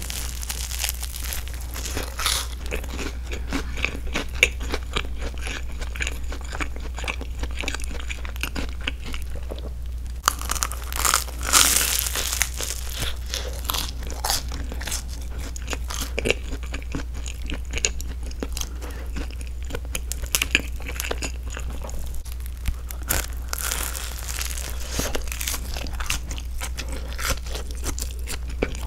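Close-miked eating of a grilled broccoli-and-cheese sandwich: the toasted crust crunching at each bite, then wet chewing with many small clicks, and breathing through the nose, over a steady low hum. Louder crunchy stretches come about 11 seconds in and again near 24 seconds.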